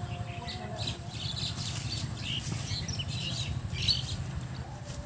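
Small birds chirping and twittering in short scattered calls, over a low steady rumble.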